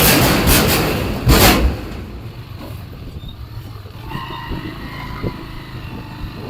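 Motorbike engine running while riding, with wind buffeting the microphone loudly for the first two seconds, then a quieter steady engine hum.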